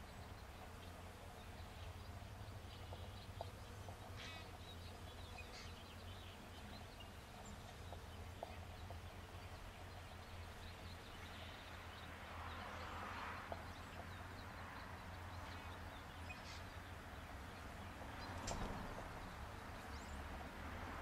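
Quiet outdoor spring ambience with a steady low hum and a few short songbird chirps and a brief trill. Two soft swells of rushing noise rise about twelve seconds in and again near the end.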